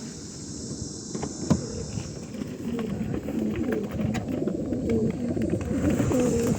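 A group of white homing pigeons cooing, the calls thickening and growing louder from about two and a half seconds in. A sharp knock comes about a second and a half in.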